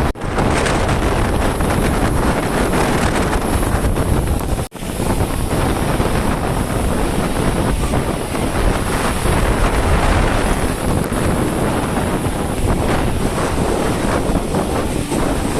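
Wind buffeting a phone's microphone: a loud, steady, rumbling rush of noise that briefly cuts out twice, just after the start and about five seconds in.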